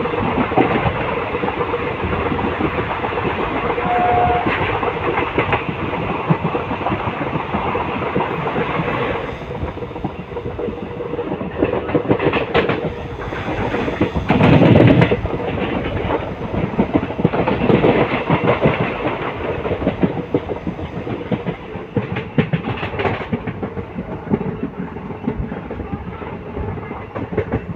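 Running noise of a passenger train at speed, heard from an open coach door: wheels clattering over the rails in a steady rattle. It is fuller for the first nine seconds or so while another train runs close alongside on the next track, then comes in louder surges, the loudest about halfway through.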